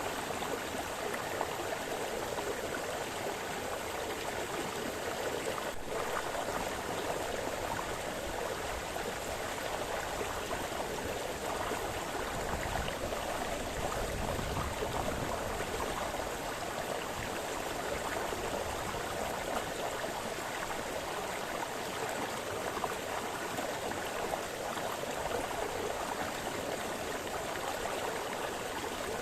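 Small brook splashing and gurgling over stones, a steady continuous rush of running water.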